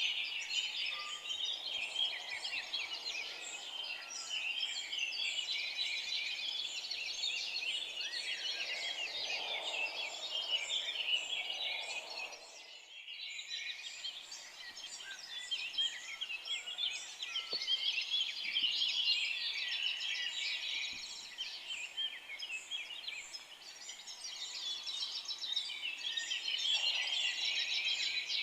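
Dense chorus of forest songbirds, many birds chirping and trilling over one another at once, with a brief lull about halfway through.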